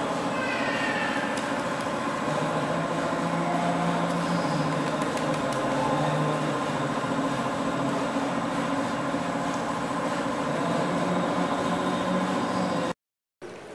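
Steady mechanical drone with several held tones, with a few brief high falling squeals in the first couple of seconds; it cuts off abruptly near the end.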